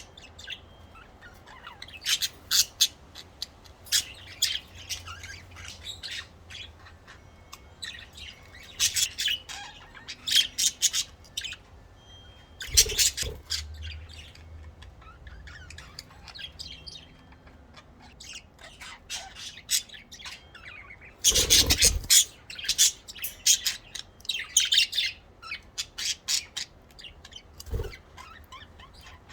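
Pet budgerigars chirping and chattering in repeated bursts of short, high calls with some squawks. Twice, about halfway and again about three quarters through, a louder brief noisy burst stands out among the calls.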